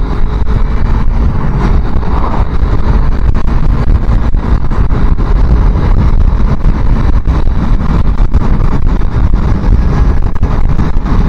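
Heavy wind buffeting on a helmet-mounted microphone on a moving motorcycle, a steady low rush with constant rough crackling gusts. The small-capacity motorcycle's engine runs beneath it, mostly masked by the wind.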